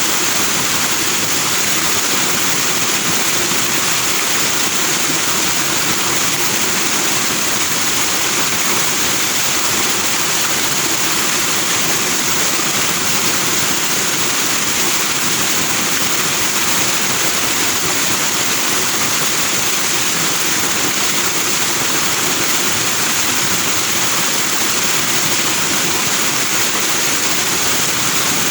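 Forest stream flowing over rocks with white foam: a steady, even rush of water that does not change.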